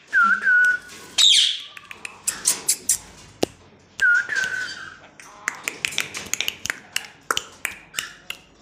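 Yellow ringneck parrot (rose-ringed parakeet) calling: short whistles that dip and then hold steady, at the start and again about four seconds in, a sharp screech about a second in, and a run of quick clicks and chirps in between.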